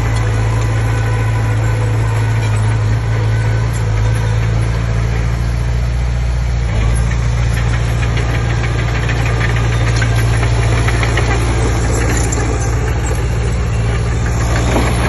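Komatsu D20P bulldozer's diesel engine running steadily with a deep hum, with light clicking over it.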